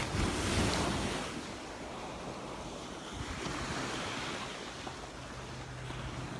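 Surf washing onto a sandy beach, with wind buffeting the microphone; a wave surges louder in the first second.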